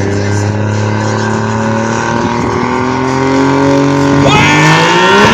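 Pulling vehicle's engine under load, its pitch rising slowly, then climbing more steeply and louder about four seconds in.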